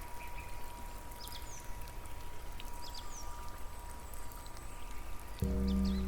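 Steady flowing-water or rain noise with a faint constant high tone and a few brief high chirps. Near the end a loud, sustained low musical drone comes in.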